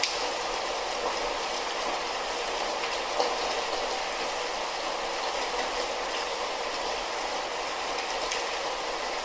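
Light rain falling steadily, a constant hiss with a few faint separate drop ticks.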